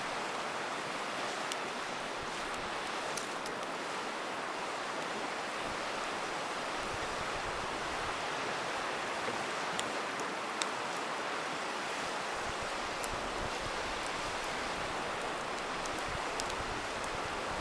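A river rushing steadily, with scattered sharp pops and crackles from a campfire, the clearest about ten and a half seconds in.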